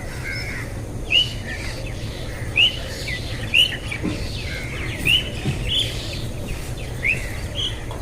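A small bird chirping repeatedly, short high chirps about once a second, over a steady low rumble.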